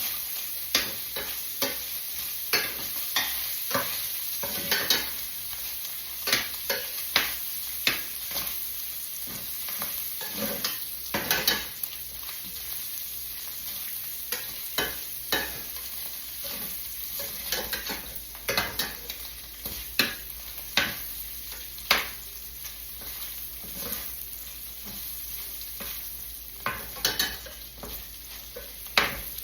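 Bacon pieces frying in a pan: a steady sizzle with frequent, irregular sharp pops and crackles.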